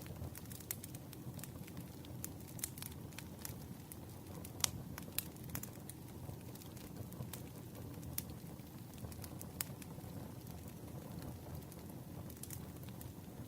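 Campfire crackling: a steady low rumble of burning wood with irregular sharp pops and snaps, one louder pop about a third of the way in.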